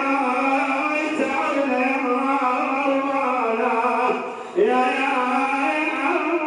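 Male munshid singing a chanted Shia religious elegy in long held notes that bend slowly in pitch. His voice drops away briefly, as if for breath, a little after four seconds in, then comes back strongly.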